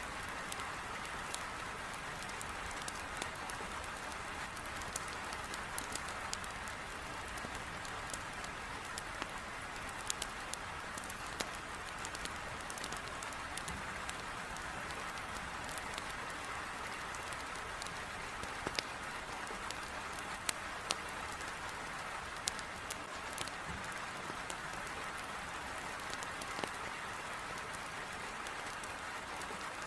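Heavy rain pouring steadily against a window, with scattered sharp pops and crackles of burning firewood in a fireplace.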